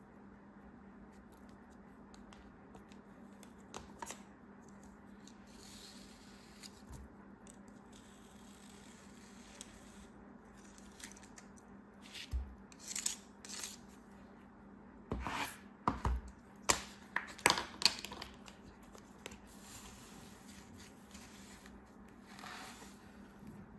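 Packaging being handled and opened by hand: scattered crinkles, rustles and short snips or tears, busiest in a cluster of sharp clicks about halfway through, over a faint steady hum.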